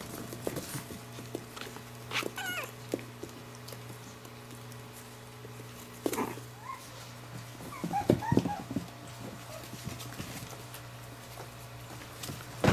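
Six-week-old Chihuahua puppies play-fighting, giving short squeaky yips and whines with light scuffling clicks. The cries come in bursts about two, six and eight seconds in, the loudest cluster around eight seconds.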